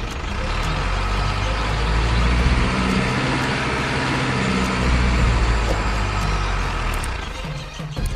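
Diesel truck engine sound running with a deep, steady rumble.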